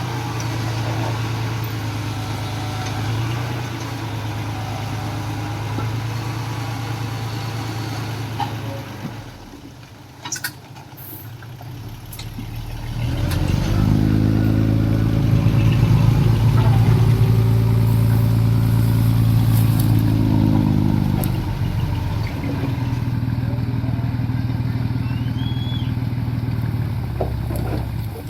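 Diesel engine of heavy earthmoving machinery running steadily. It fades away about nine seconds in, then comes back louder under load for about eight seconds before easing back to a steady run.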